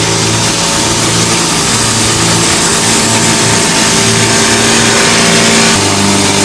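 Engine running steadily under a loud rushing noise, its tone shifting abruptly near the end.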